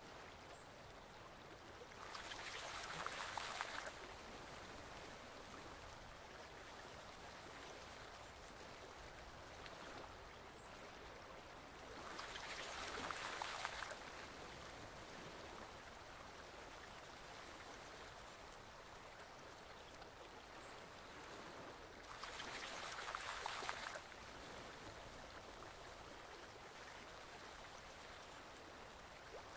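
Forest stream flowing gently and steadily, with a louder rush of water lasting about two seconds that comes back every ten seconds, three times.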